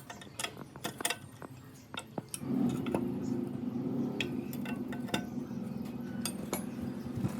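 Sharp metallic clinks and taps of hand-worked metal parts. About two and a half seconds in, the restored benchtop jigsaw starts and runs with a steady low hum and a few clicks.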